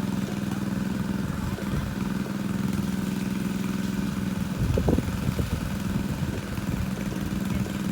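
Engine of a pond-draining water pump running steadily at a constant speed, with a brief burst of louder, irregular noise about five seconds in.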